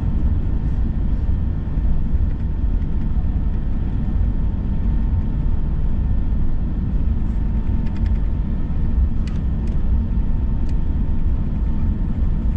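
Steady low rumble of engine and airflow noise inside an Airbus A321's cabin, with a faint steady whine. A few light clicks come about eight to ten seconds in.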